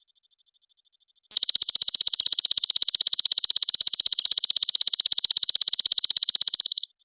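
A high, rapid, evenly pulsed trill from a recorded animal call, starting about a second in and stopping shortly before the end. It is held steady with no change in pitch, and a much fainter pulsed high tone can be heard before and after it.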